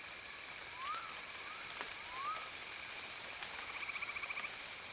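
Frogs calling in a night chorus: three short rising chirps in the first half, then a rapid pulsed trill near the end, over a steady high-pitched whine.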